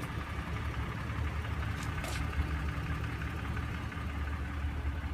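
Engine idling steadily: a low, even hum.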